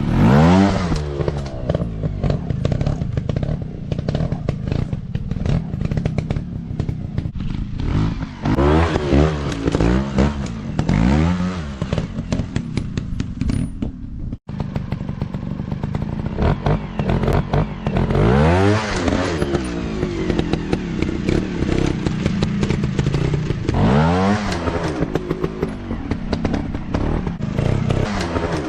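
Dirt bike engines revving hard in repeated bursts, the pitch climbing and falling as the throttle is worked, with clattering and knocks of the bikes over rough ground. The sound drops out for an instant near the middle.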